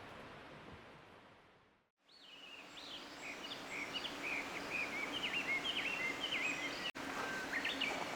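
Steady rush of a flowing river with small birds chirping over it in quick runs of short rising and falling calls. The ambience fades out to silence at about two seconds in, fades back, and cuts out for an instant near seven seconds.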